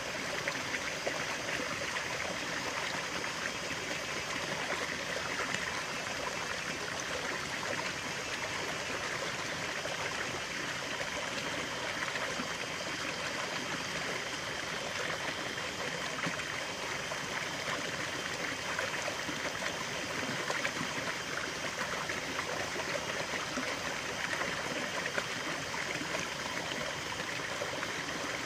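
A stream of natural running water flowing steadily, with no breaks or changes.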